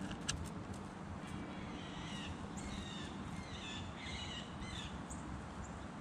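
Wild birds calling: a run of short, harsh calls and chatter for several seconds over a steady low background rumble, with a single sharp click just after the start.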